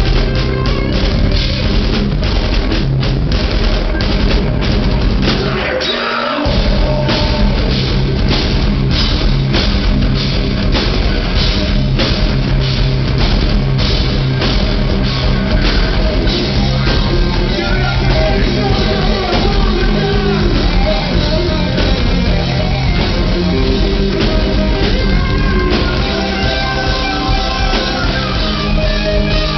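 Five-piece rock band playing live: two guitars, bass, drum kit and keyboards, with a brief break in the bass and drums about six seconds in before the full band comes back.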